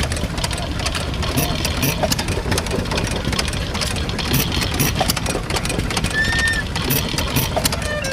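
Old engines running together, with a steady low rumble and many irregular clicks and knocks. A short whistle-like tone sounds about six seconds in.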